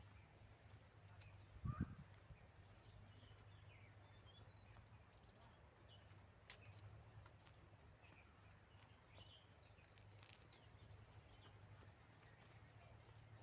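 Near silence with faint, scattered bird chirps. A soft low thump comes about two seconds in and a sharp click about halfway through.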